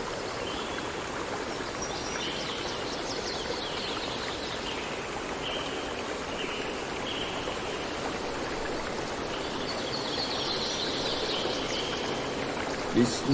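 A stream of running water flowing steadily, with short, high bird calls over it now and then.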